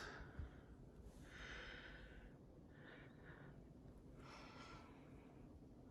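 Three soft breaths close to the microphone, one after another, over otherwise near silence.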